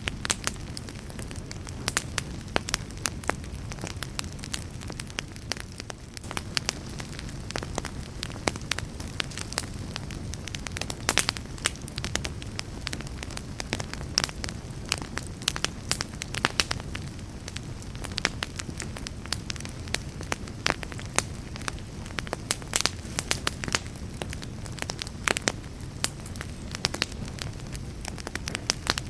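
Wood fire burning, a low steady rumble of flames with frequent sharp, irregular crackles and pops from the burning wood.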